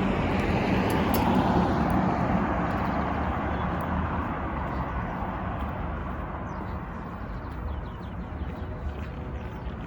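Road traffic: a vehicle passes by, its tyre and engine noise swelling about a second in and then fading away slowly. Faint high bird chirps come through near the end.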